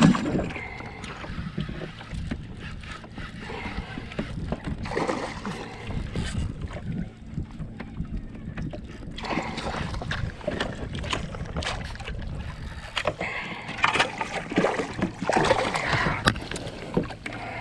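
Sounds from a fishing kayak on the water: irregular splashes and knocks at the hull, over a low rumble.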